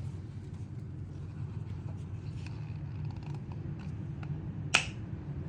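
Faint clicks of handling the oil filter, then one sharp snap near the end as the old filter element pops off the clip in its housing cap, over a steady low hum.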